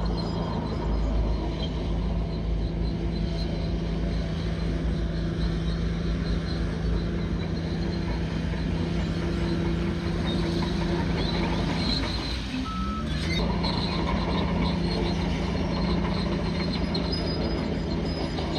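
Bulldozer's diesel engine running steadily and heavily, its pitch sagging about twelve seconds in and climbing back, with a short beep as it recovers.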